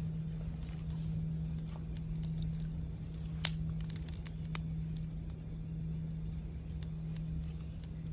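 Campfire crackling with scattered pops, one sharper pop about three and a half seconds in, over a steady low sustained tone from a singing bowl.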